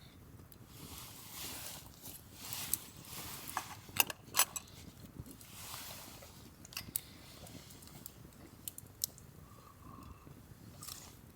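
Small objects being handled: scattered sharp clicks and knocks, the loudest two about four seconds in, with short stretches of rustling between.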